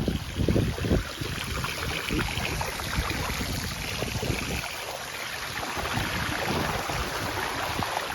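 Floodwater rushing and splashing as a steady noise, with wind buffeting the microphone in the first second.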